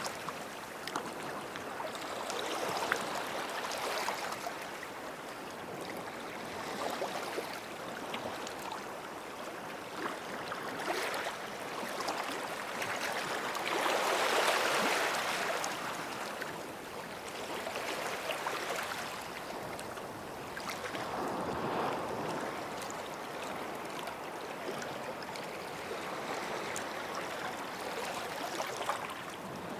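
Sea waves washing onto the shore at the water's edge, the wash swelling and falling back every three to four seconds.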